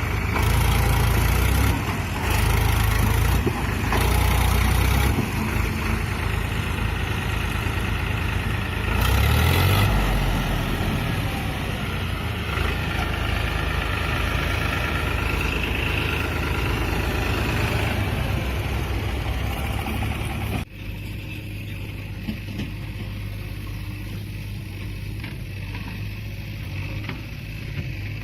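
Tractor diesel engine working under heavy load, rising in several loud surges of revs over the first ten seconds. About two-thirds of the way through, the sound cuts abruptly to a quieter, steadier engine run.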